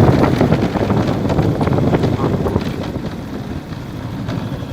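Motorcycle engine running while riding, with heavy wind noise on the microphone; the sound eases off after about three seconds as the bike slows.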